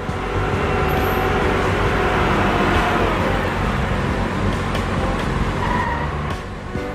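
A heavy vehicle's engine running steadily, loud and even throughout.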